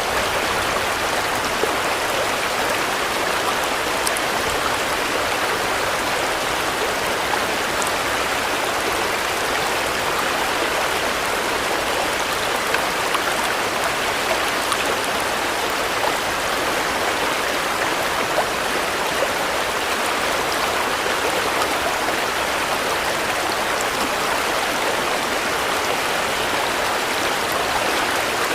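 Steady rain falling: a dense, even hiss with a few faint drop ticks.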